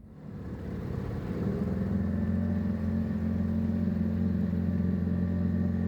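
A boat engine running at a steady speed, getting louder over the first two seconds and then holding steady.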